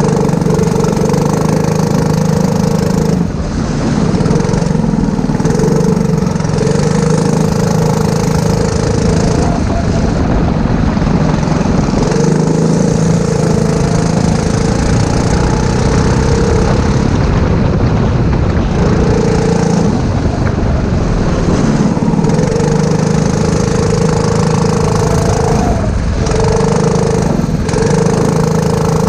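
Go-kart engine on track, held at a steady high pitch for stretches of a few seconds and breaking off briefly every few seconds as the throttle is lifted and reapplied for corners.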